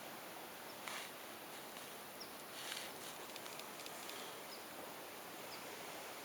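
Faint outdoor background: a steady hiss with two brief rustles, about a second in and near the middle, and a few tiny high chirps.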